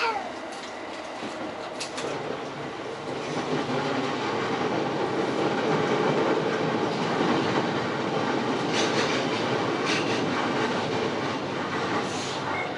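JR East E231-series electric train running, heard from inside the lead car: steady rolling noise with wheels clicking over rail joints, the running noise growing louder about three seconds in. A short falling squeal sounds at the very start.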